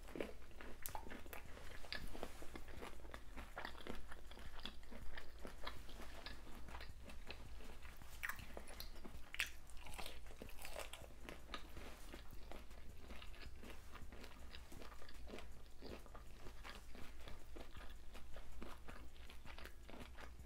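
Close-miked chewing of fried, hot-Cheetos-crusted seafood, with irregular crisp crunches and wet mouth clicks throughout.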